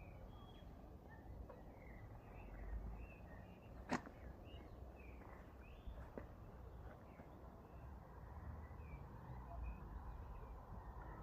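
Faint outdoor ambience of small birds chirping on and off over a low wind rumble, with one sharp click about four seconds in.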